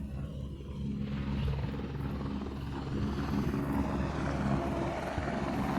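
Helicopter running on the ground before take-off: a steady low engine and rotor drone, with a rushing noise that grows about a second in.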